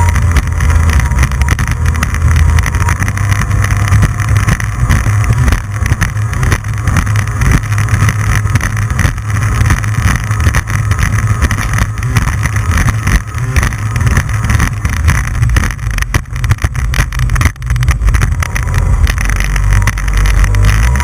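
Jet ski running at speed over water, a loud steady engine drone with uneven, choppy loudness.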